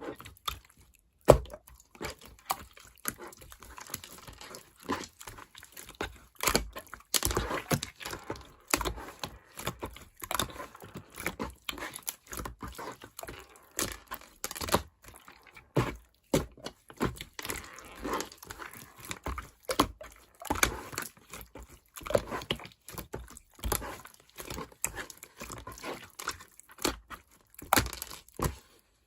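Clear slime being squished and pressed by hand, giving irregular sticky clicks and pops.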